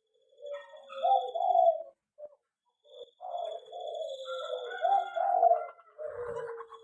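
Zebra doves (perkutut) cooing: a phrase of low coo notes about half a second in, then a longer run from about three seconds in where more than one bird's calls overlap.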